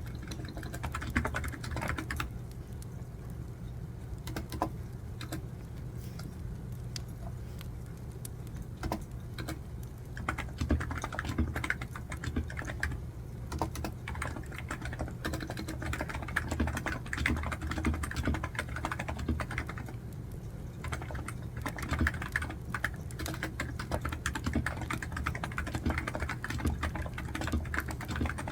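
Computer keyboard typing: a continuous, irregular run of key clicks. Underneath is a steady low hum, with a crackling wood-fire sound layered in.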